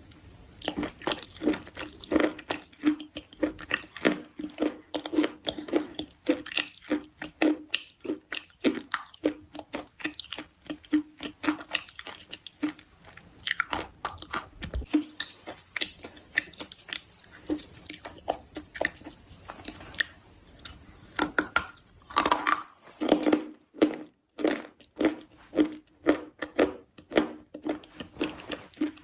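A person chewing and biting something crunchy, close to the microphone: a steady run of crackly crunches, about two a second, with a short pause near the end.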